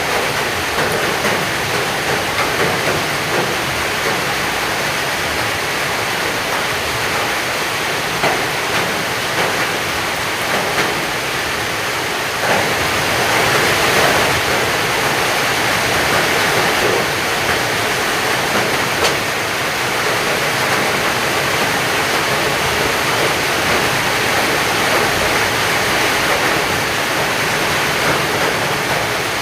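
Heavy rain pouring down steadily, a continuous hiss that grows a little heavier about twelve seconds in.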